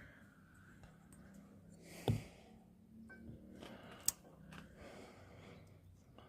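Brake shoes and hardware being worked into place by hand: one knock about two seconds in and a sharp metallic click about four seconds in, with the mechanic breathing between them.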